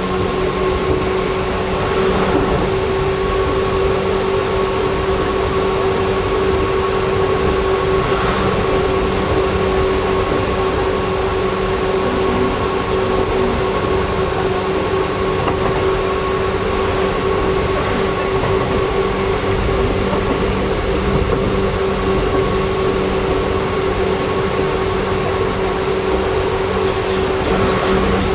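Seibu 2000 series electric commuter train heard from inside the car: a steady rumble with a constant hum and a fainter, higher whine that hold the same pitch throughout.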